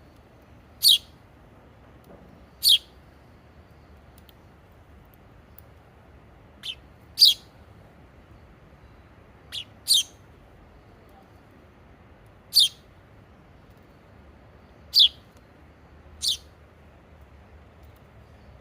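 A small bird chirping: about nine short, high chirps, some in quick pairs, with pauses of one to three seconds between them, over a faint steady hiss.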